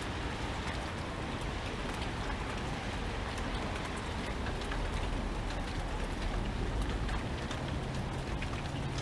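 Steady rain falling, with scattered drops ticking on a surface. A low rumble underneath swells about five seconds in.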